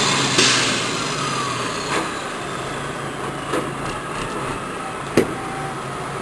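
Triaxle dump truck unloading a load of horse manure: the truck's engine runs, with a short hiss about half a second in and three sharp knocks spread through the rest.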